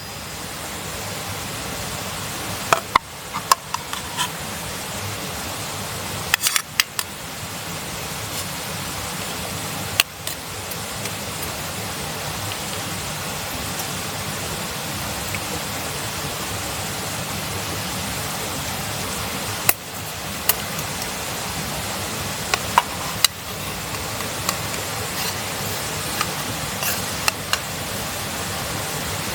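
Steady sizzling hiss of food cooking over a campfire, with scattered sharp crackles and pops.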